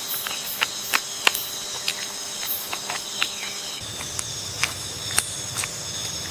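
Rainforest insect chorus: a steady high trilling, crossed by many scattered sharp clicks and snaps. A low rumble joins under it a little over halfway through.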